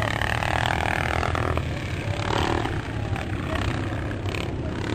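Several motocross motorcycle engines running hard as the bikes race around the track, a steady blended engine noise with one bike's engine note standing out in the first second or so.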